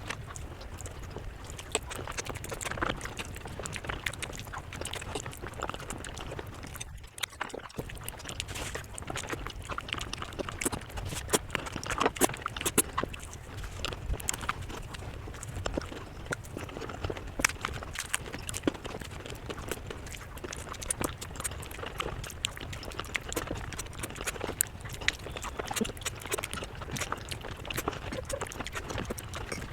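Close-miked eating sounds: chewing and mouth clicks, a dense irregular run of small clicks and crunches over a steady low hum, broken briefly about seven seconds in.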